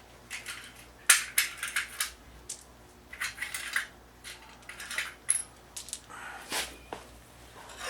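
Metal parts and hand tools clinking, knocking and scraping in short irregular bursts during reassembly of a truck's front axle shaft and wheel end.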